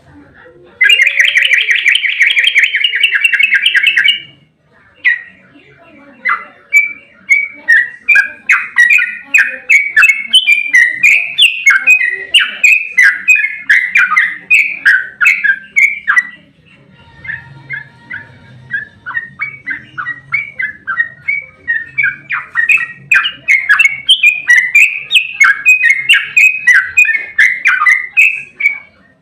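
Yellow-vented bulbul (trucukan) calling: a harsh, buzzy scolding burst lasting about three seconds, then long runs of rapid bubbling, chattering notes. The chatter softens for a few seconds midway, then comes back loud.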